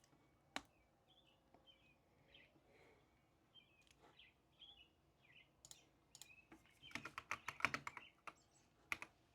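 Quiet room with a few faint bird chirps coming in, then a quick burst of keyboard typing about seven seconds in, with a few single clicks around it.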